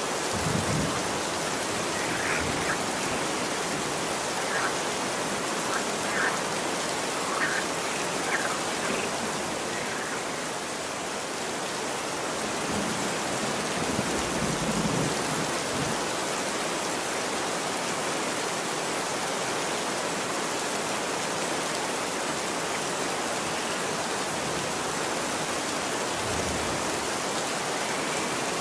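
Steady rain falling on a street, an even hiss of drops with no letup. A few short, faint frog croaks come through in the first nine seconds or so.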